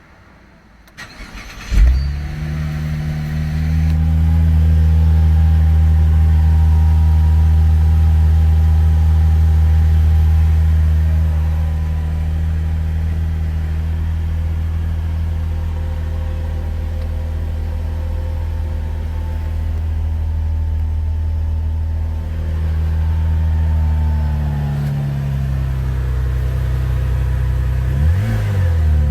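Opel Insignia OPC's 2.8-litre turbocharged V6 cold-starting: a brief crank about a second in, then the engine catches with a loud burst and settles into a fast cold idle. The idle steps down twice as it warms, and near the end the engine is blipped a couple of times.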